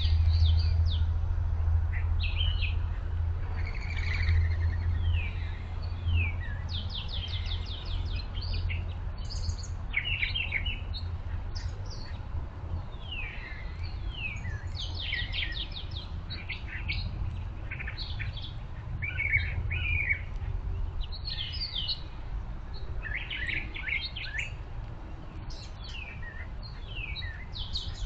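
Several small songbirds chirping and calling, with short down-slurred notes and quick trills overlapping throughout. A steady low rumble lies underneath and grows slightly fainter.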